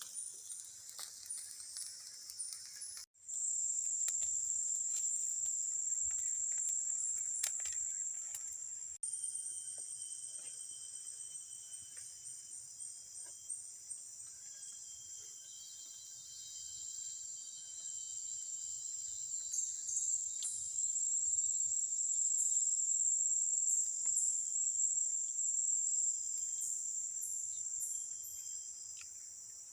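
Forest insects, crickets or cicadas, keeping up a steady high-pitched chirring chorus, with scattered sharp clicks. The chorus cuts off abruptly and changes about three seconds in and again about nine seconds in.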